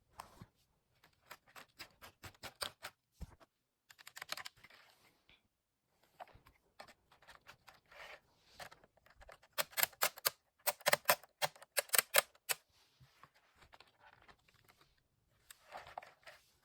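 Irregular bursts of rapid light clicking and rattling of small plastic Lego parts, densest and loudest about two-thirds of the way through.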